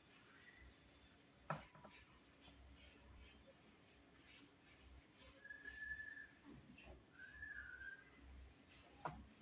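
Cricket chirping: a steady, high-pitched, rapidly pulsing trill that stops briefly about three seconds in. Two short, faint whistles come partway through.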